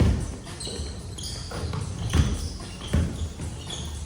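Basketball bouncing on a gym floor, a few separate thumps, with short high-pitched squeaks in between.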